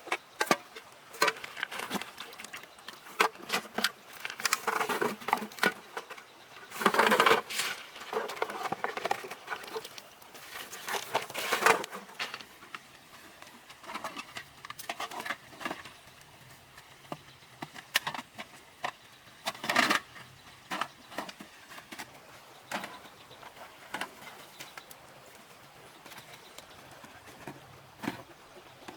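Irregular clicks, knocks and rustling, busiest in the first twelve seconds, then only scattered taps.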